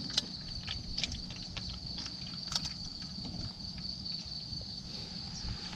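Insects chirring in a steady, high, continuous tone, with scattered faint clicks and taps over it.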